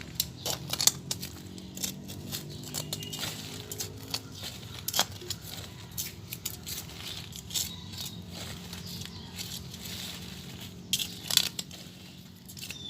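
Digging in garden soil: irregular scrapes and small clicks of a digging tool working through dirt, while searching for earthworms.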